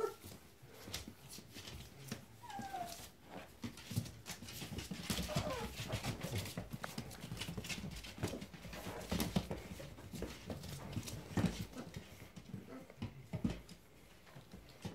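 Puppies playing, giving a few short falling whines among many quick scuffles and clicks.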